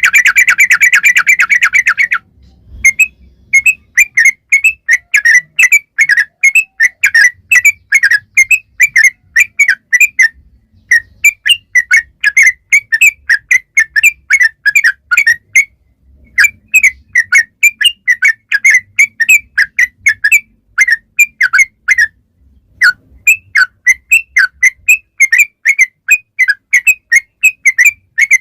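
Yellow-vented bulbul (trucukan) song in long runs of quick, whistled chirps, about three to four a second. It opens with a fast trill for about two seconds, and the runs break off briefly three times.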